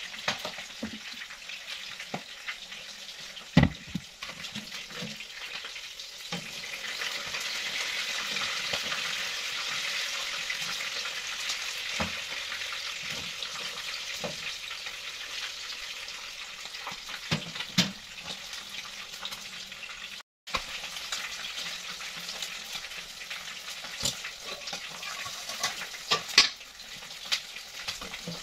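Chicken pieces deep-frying in hot oil in a wok, a steady sizzle. A few sharp knocks of metal tongs and a wire skimmer against the wok. The sound drops out for a split second about two-thirds of the way through.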